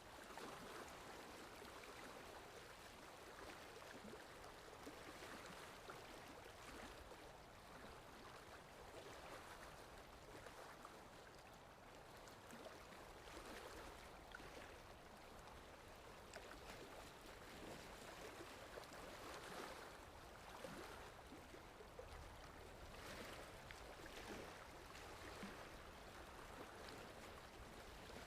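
Faint sea waves washing in a soft, steady rush that swells and eases now and then.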